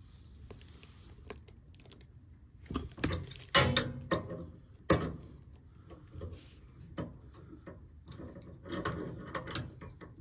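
Hand tools and metal fittings clicking, clacking and rattling in irregular knocks, as parts of a furnace gas line are handled. The loudest sharp clacks come about three and a half and five seconds in, with another run of rattles near the end.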